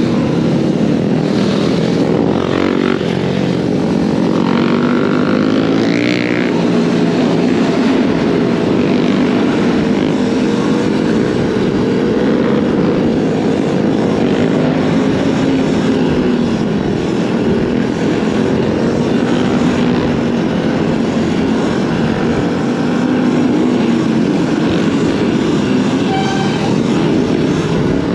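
Motorbike running under way, a steady drone whose pitch slowly rises and falls with the throttle.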